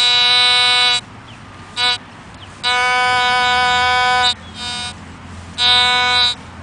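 Metal detector's target tone: a steady buzzy tone at one fixed pitch, sounding in on-off stretches of about a second or more, with short blips between, as the coil is swept over a buried target.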